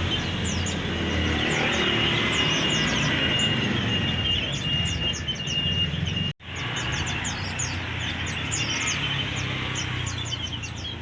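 Many caged songbirds chirping all together in quick, high twitters over a low background rumble. A thin, steady whistled note repeats for the first few seconds. The audio cuts out for an instant about six seconds in.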